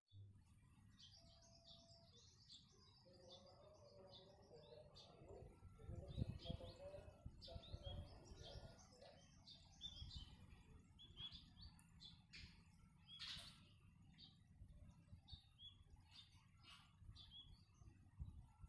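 Small birds chirping repeatedly in short high notes, faint, over a low rumble.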